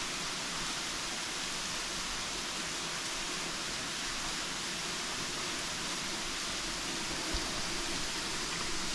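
Steady rush of a waterfall splashing down into a sinkhole.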